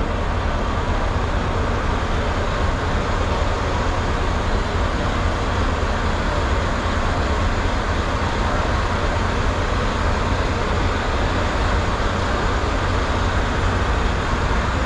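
Semi-truck driving along, a steady low drone of diesel engine and road noise with no change through the stretch.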